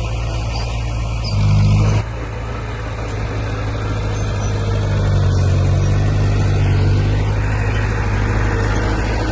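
Heavy diesel engine of earthmoving machinery running steadily under load. It surges louder for about half a second, starting a little over a second in, then drops back abruptly, and it swells slightly again past the middle.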